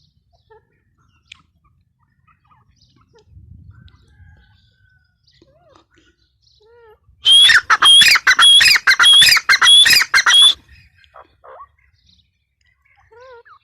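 Grey francolin calling: a loud run of about eight quick, repeated shrill phrases, roughly two a second, lasting about three seconds from around seven seconds in. Faint scattered chirps before and after.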